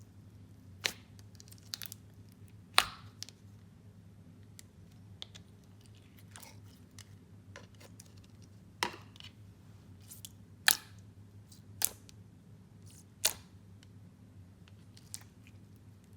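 Clear slime topped with fishbowl beads being squeezed and mixed by hand, giving scattered sharp pops and crunches about every second or two over a faint steady hum.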